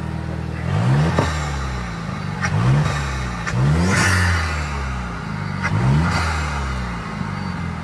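Vuhl 05's turbocharged engine revved in neutral: four quick throttle blips that climb from idle and fall back, about a second or so apart, before it settles to a steady idle near the end.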